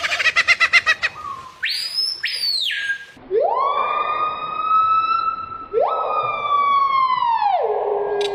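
Bird calls: a rapid pulsed trill for about a second, then a short rising whistle, then two long siren-like wails that each sweep up, hold and fall away, the second sinking low near the end.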